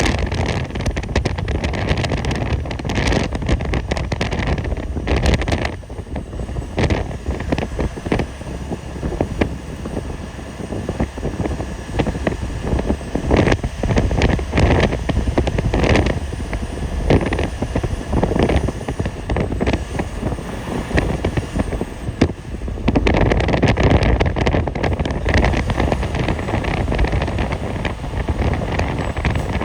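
A vehicle driving on a snow-covered road: a steady low rumble of road and tyre noise with wind buffeting the microphone, and many short crackles through it. It dips briefly about six seconds in and grows louder again near the end.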